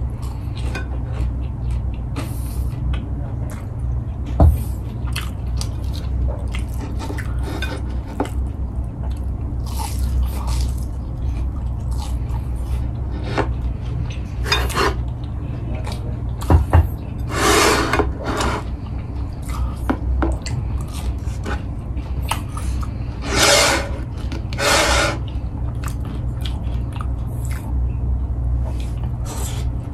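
Close-miked mukbang eating by hand: wet chewing and lip smacks of a fried, meat-filled snack and vegetable stir-fry, with many small clicks. A few louder, longer noisy rushes come about two-thirds of the way in, over a steady low hum.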